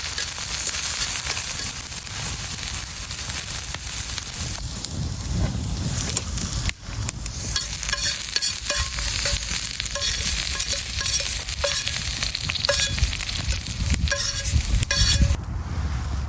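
Steady sizzling and crackling from cooking over a wood campfire, with scattered small clicks and clinks. It briefly drops out about seven seconds in.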